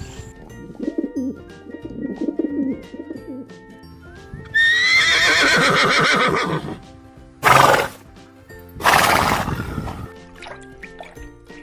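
Animal calls over background music. A loud, wavering call that falls in pitch runs for about two seconds near the middle, followed by two short, noisy blasts.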